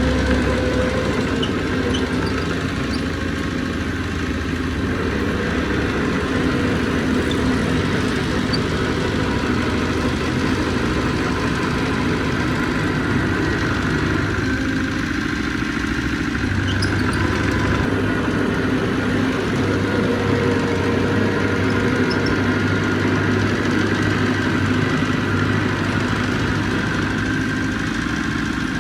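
Heavy diesel engine of earthmoving machinery running steadily, its low note shifting slightly a little past halfway.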